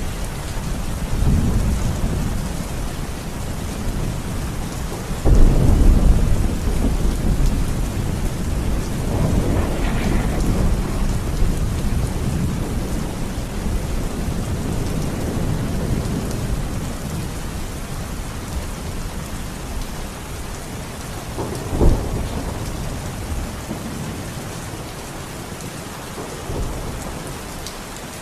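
Steady rain with rolling thunder: a loud rumble breaks about five seconds in, another swells around ten seconds, and a short sharp thunderclap comes near the end.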